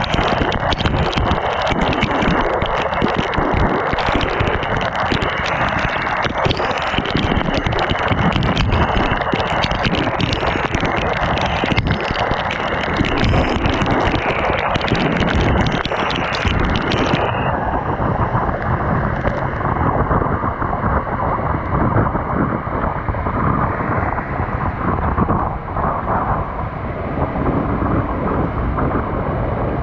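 Wind buffeting and rain hitting the microphone while riding in the rain, a loud, dense rush full of small crackles. About two-thirds of the way through the sound turns abruptly duller, its high end cut off.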